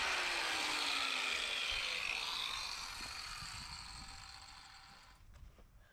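Angle grinder spinning down after being switched off, its whine falling in pitch and fading away over about five seconds, followed by a few faint clicks.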